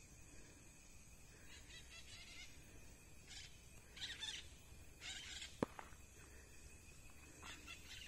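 Faint bird calls, a few short scattered calls, with one sharp click a little past halfway.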